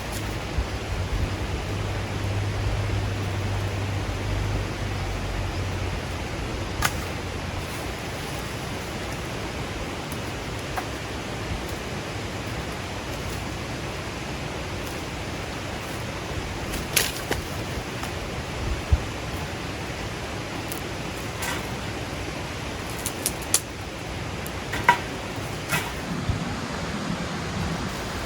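Steady even outdoor noise with a low hum for the first several seconds, and a dozen or so sharp clicks scattered through the rest.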